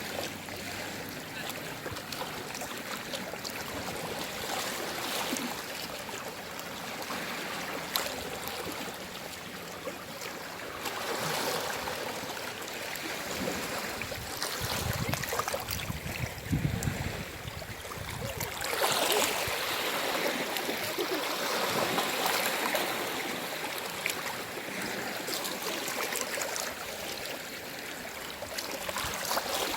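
Gentle sea waves washing in and out, with swells of water. One swell comes about halfway through, and the loudest about two-thirds of the way in.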